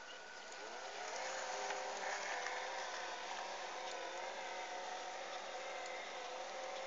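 Small electric drive motor and gearbox of a Bruder Valtra toy tractor converted to radio control, whining as it spins up in the first second and then running steadily with a slightly wavering pitch.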